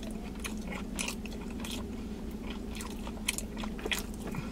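A person chewing a mouthful of sandwich close to the microphone, with many small wet clicks and smacks scattered irregularly, over a steady low hum.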